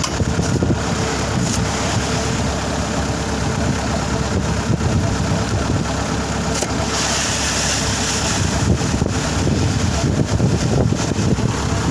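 An engine running steadily while strong wind buffets the microphone with a gusting rumble.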